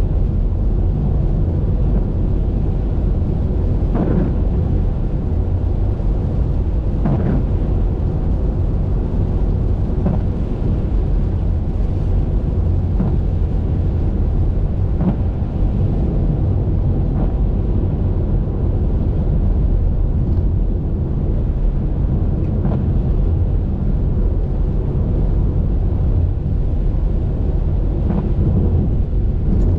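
Steady low rumble of a car driving on a highway in the rain: road and wind noise, with faint ticks every two or three seconds.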